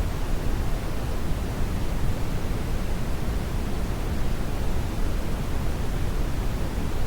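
Steady synthetic brown noise: an even, unchanging rushing hiss, strongest in the low end and softer in the highs, with no events or changes.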